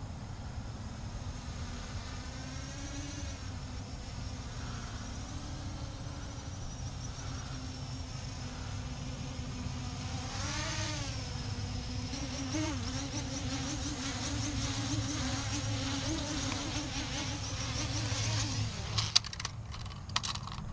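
CG035 GPS quadcopter drone's motors and propellers buzzing in flight, the pitch wavering as the throttle changes and dipping then rising about ten seconds in. The buzz stops a second or two before the end, followed by a few sharp clicks.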